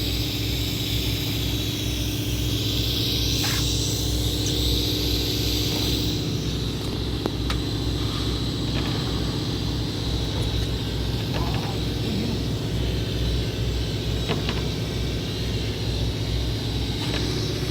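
Fishing boat's engine running steadily with a low, pulsing throb and a constant hum, with a few small clicks and knocks.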